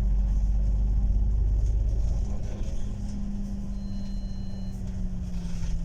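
Moving vehicle heard from inside the cabin: a steady low rumble with a hum that dips slightly in pitch, and a faint high whine near the middle.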